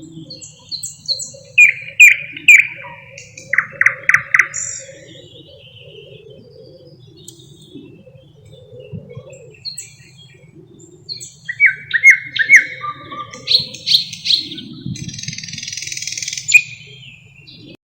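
Thrush nightingale singing: two loud song phrases of quickly repeated notes, separated by a pause of several seconds. The second phrase ends in a harsh, rasping rattle near the end.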